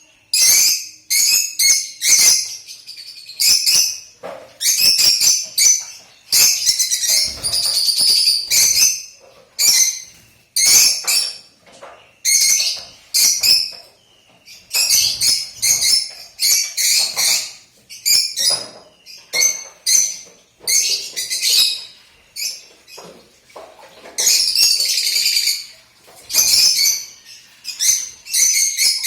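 Lutino lovebird chirping and chattering in rapid high-pitched bouts of about a second each, with short pauses between.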